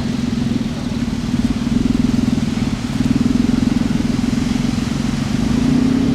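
A car engine running with a steady pulsing note that rises slightly in pitch near the end.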